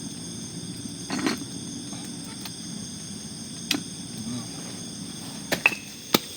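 A steady chorus of forest insects, crickets or similar, trilling on several high tones. Over it come a few sharp knocks and clicks: one about a second in, one near the middle, and a quick cluster near the end.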